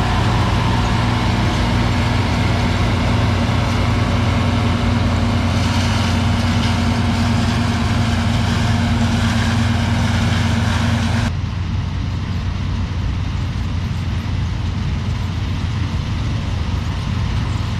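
Combine harvester running steadily while harvesting soybeans, a loud engine-and-machinery drone. About eleven seconds in, the hiss and the higher hum stop abruptly, leaving a duller, quieter drone.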